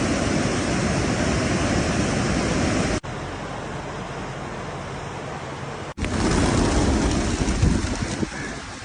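Steady outdoor rushing noise, like wind or running water, in three segments that cut off sharply about three and six seconds in; the middle stretch is quieter.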